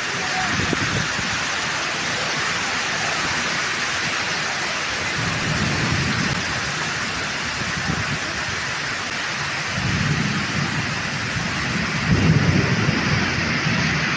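Heavy monsoon rain pouring down in a steady hiss. Deep rumbling surges come and go over it several times, the loudest starting sharply about twelve seconds in.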